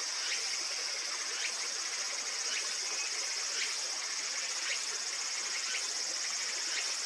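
Evening insect chorus: a steady, high-pitched trilling drone, with a short chirp repeating about once a second.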